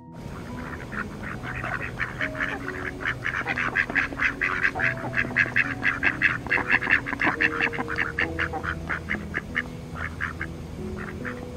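A group of mallard ducks quacking: a dense run of rapid quacks that is thickest in the middle and thins out to scattered quacks near the end.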